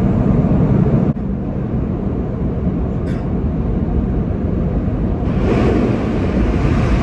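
Automatic car wash machinery heard from inside the car: a loud, steady rumble that drops suddenly about a second in, with a brighter hiss of spray or air rising about five seconds in.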